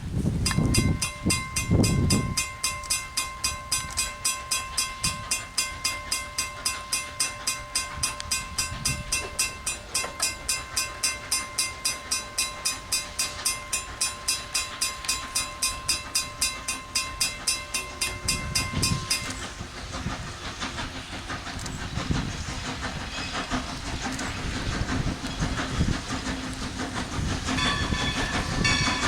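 A grade-crossing signal bell rings rapidly, about four strokes a second, and stops suddenly about two-thirds of the way through. After it, a steam locomotive passes with a low rumble and chuffs, and its whistle begins faintly near the end.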